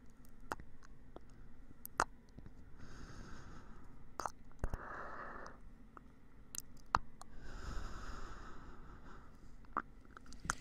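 Close-miked ASMR ear-cleaning sounds: irregular sharp clicks and scrapes, with three soft breathy puffs about 3, 5 and 8 seconds in.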